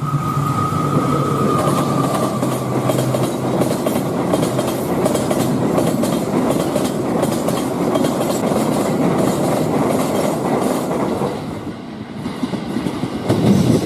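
KA Logawa passenger train rolling past at close range, a steady rumble with a rhythmic clickety-clack of wheels over the rail joints. A steady high tone sounds over it for the first few seconds, dipping slightly in pitch. The sound swells briefly near the end, then cuts off suddenly.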